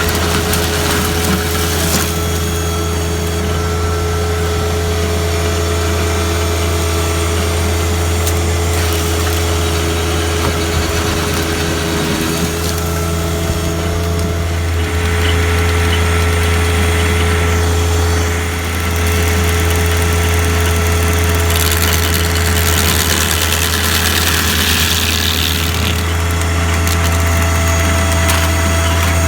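Engine running steadily, driving a Woodland Mills WG24 stump grinder, with spells of louder hissing noise about halfway through and again near the end.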